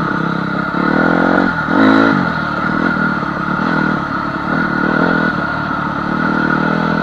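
Honda CR250 two-stroke single-cylinder dirt bike engine running while ridden, the revs rising and falling a couple of times about one and two seconds in, with some clatter.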